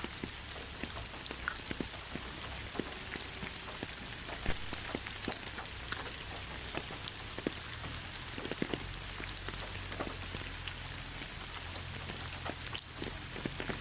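Autumn rain falling onto fallen leaves: a steady hiss with many scattered sharp taps of drops hitting the leaves, one louder tap near the end.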